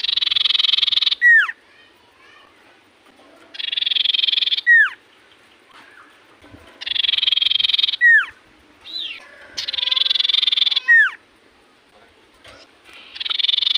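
Common iora (cipoh) singing a repeated phrase: a buzzy, rapid trill lasting about a second, ending in a sharp falling whistle, repeated about every three seconds.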